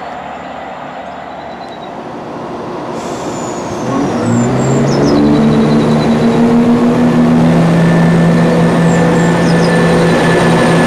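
Diesel train engine rumbling, then revving up about four seconds in with its pitch rising, and running on at a steady, louder note.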